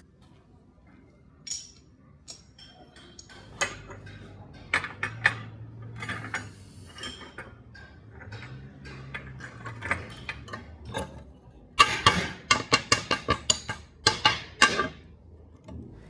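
Light metallic clinks and taps, steel pieces knocking against each other. They are scattered at first, then come in a quick run of about six sharp taps a second near the end.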